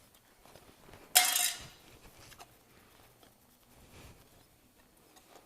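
One short metallic clink about a second in, like small hard parts knocking together, then a few faint taps from handling.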